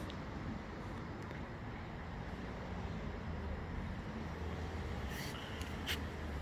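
Steady low rumble of a vehicle engine under an even outdoor background hiss, with two short, sharp hissing sounds about a second apart near the end.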